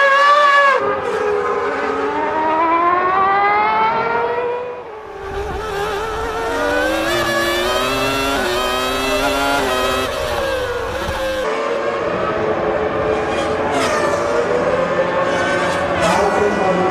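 1997 Formula One car engines at high revs. The pitch climbs and drops repeatedly with gear changes and braking. The sound changes abruptly twice, as different cars or shots take over.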